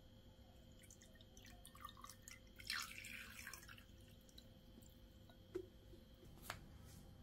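Faint kitchen handling sounds: a short trickle of liquid with light clinks, then two sharp taps near the end.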